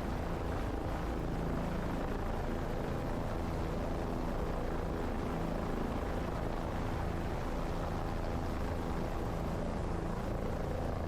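Helicopter running steadily in flight: an even, unbroken engine-and-rotor drone with many steady tones.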